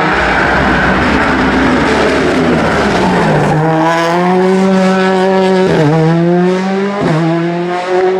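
Rally car engine at high revs, rough and noisy at first, then settling into a steady, clear note with two brief dips about six and seven seconds in, as the driver shifts or lifts off.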